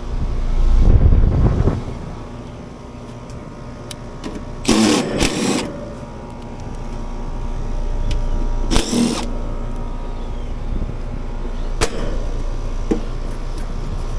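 Outdoor air-conditioning condensing units running with a steady hum. Two short bursts of rustling and handling noise come near the middle, and a sharp click comes later.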